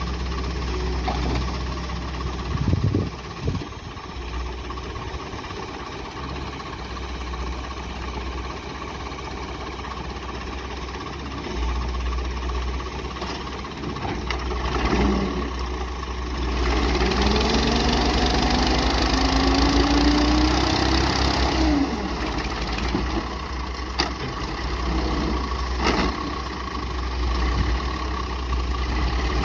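Massey Ferguson 240 tractor's diesel engine running low, then revving harder from about halfway, its pitch climbing over several seconds as it works under load. A couple of sharp knocks come near the end.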